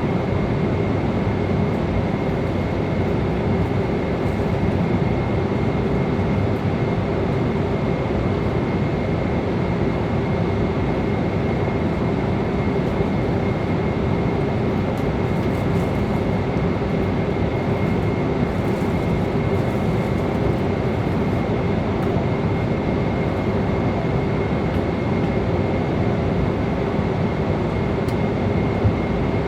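Airliner cabin noise in flight: a steady, even roar of engines and airflow, with a thin high whine held at one pitch throughout.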